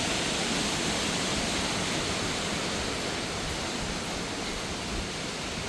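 Steady, even rush of a cascading waterfall.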